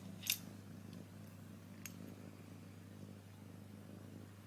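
A cat purring steadily, with a Scrabble tile clicking sharply once near the start and a fainter click about two seconds in.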